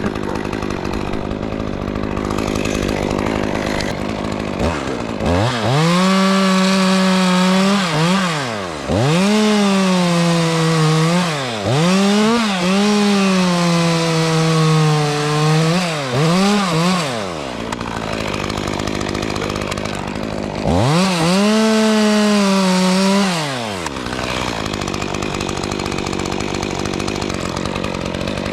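Two-stroke chainsaw idling, then run up to full throttle about five seconds in and cutting dead oak for some twelve seconds, its pitch dipping and recovering as the chain bites. It drops back to idle, then revs and cuts again for a couple of seconds before settling back to idle.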